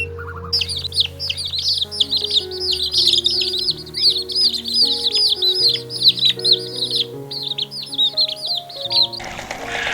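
Many small birds chirping rapidly and overlapping, high-pitched, over background music with held notes. Near the end the chirping stops and a rougher, rhythmic sound takes over.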